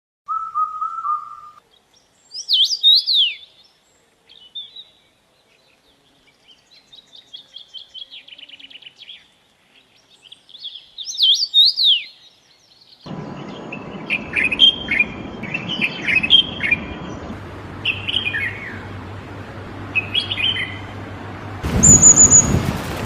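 Songbirds singing and calling: a short steady whistle, sharp down-slurred calls and a fast trill, each separate. About 13 seconds in it cuts to a recording with steady hiss and hum under many quick chirps, and near the end to another, louder recording.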